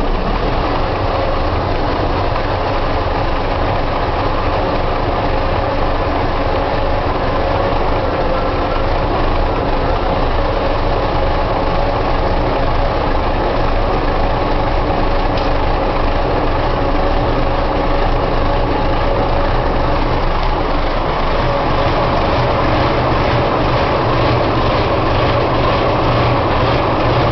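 MGO V12 diesel engine of an RGP X 2700 railcar running steadily at idle after a cold start. Its firing beat becomes more distinct about twenty seconds in.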